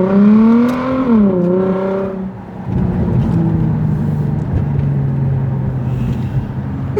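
Car engine revving through its exhaust: the pitch climbs to a peak about a second in and drops back. After a short dip it settles into a steady idle.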